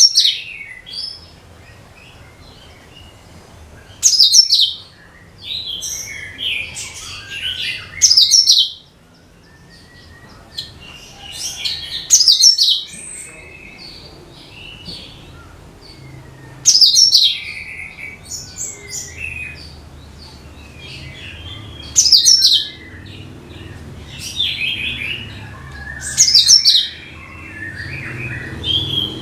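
Cucak kinoi singing: a loud phrase of sharp, high, falling notes about every four seconds, each followed by softer twittering, with a faint steady low hum underneath.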